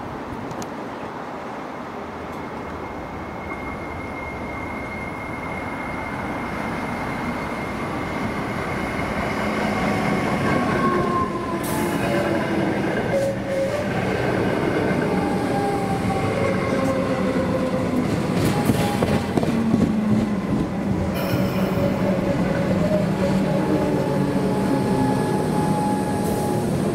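Electric suburban multiple-unit train approaching and running close past, its wheels rumbling on the rails, getting louder over the first ten seconds. Several thin, squealing wheel tones ride over the rumble.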